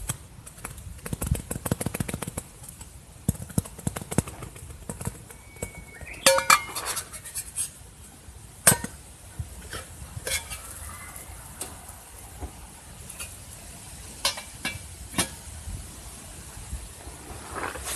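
Cookware and utensils being handled while cooking: a quick run of small clicks and knocks, then scattered sharper clinks of metal on pots and pans, a few with a short ring.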